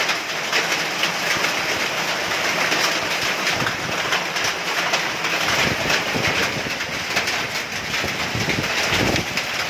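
Hailstones and heavy rain pelting down in a storm: a dense, steady clatter of countless small impacts, with gusts of wind rumbling through about four and nine seconds in.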